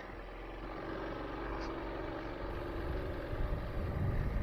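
Trailmaster MB200 mini bike's small single-cylinder four-stroke engine running as the bike rides along, getting steadily louder, with a low rumble building near the end.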